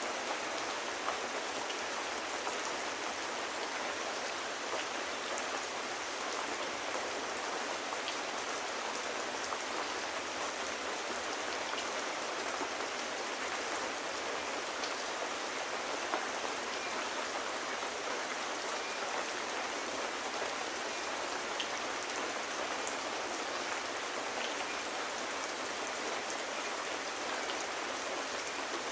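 Steady rain falling: an even hiss with scattered faint clicks of drops.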